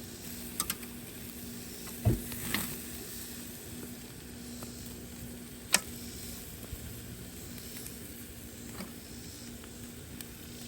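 Food sizzling steadily as it fries, with a dull knock about two seconds in and a few sharp clicks, the loudest about six seconds in, like a utensil against the pan.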